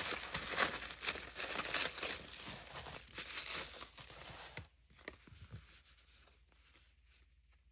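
Packaging being torn open and crinkled by hand: dense crackling rustle for about four and a half seconds, then a few fainter rustles that die away.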